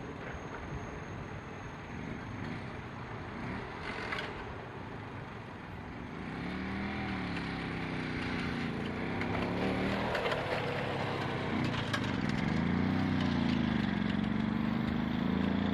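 Motor vehicle engines passing over a level crossing, their pitch rising and falling as they accelerate and shift gear, getting louder over the second half.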